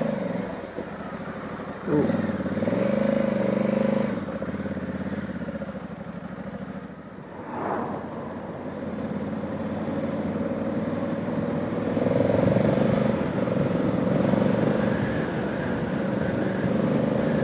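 Honda Africa Twin's 1084 cc parallel-twin engine running steadily as the motorcycle is ridden along. The engine note dips briefly about seven seconds in and then picks up again.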